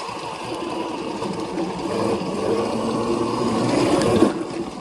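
Electric bike's 2000 W motor whining, rising in pitch as it picks up speed and falling away a little after four seconds in.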